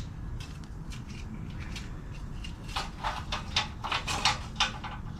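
A quick run of light clicks and knocks starting a little under three seconds in, over a low steady hum.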